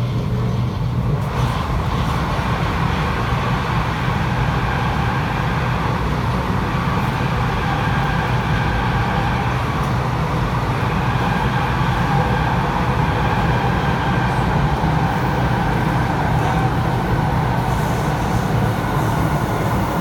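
Interior noise of a Kawasaki C751B metro train running along the track: a steady low rumble of wheels and running gear, with faint steady tones from the traction equipment.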